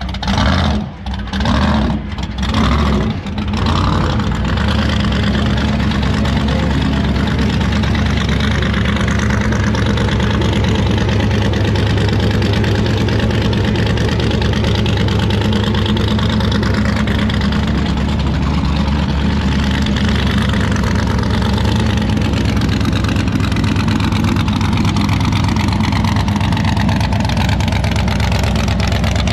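A motor vehicle's engine running steadily, its pitch slowly rising and falling, after a few sharp knocks in the first few seconds.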